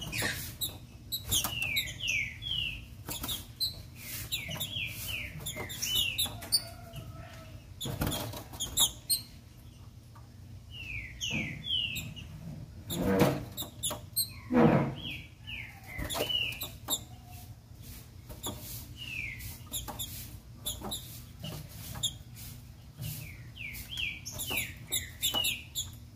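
Female green-winged saltator (trinca-ferro) calling in short runs of three to five quick descending chirps, repeated every few seconds. Clicks of the bird hopping on its cage perches come between, with a couple of louder knocks about halfway through.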